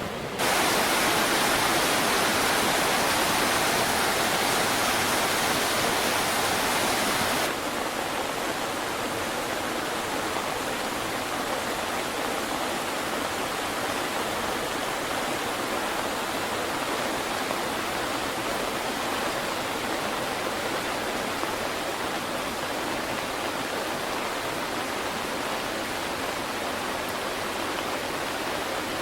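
Rushing water of a river in flood, a steady loud roar. A louder, brighter stretch starts suddenly just after the start and stops suddenly about seven seconds later, giving way to a slightly quieter, even rush.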